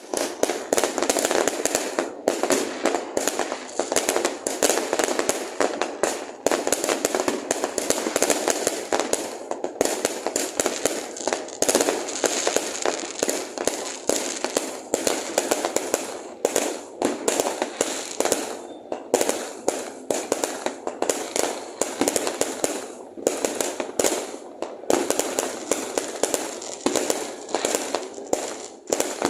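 Fireworks going off in a dense, continuous barrage: rapid overlapping bangs and crackles with hardly a gap.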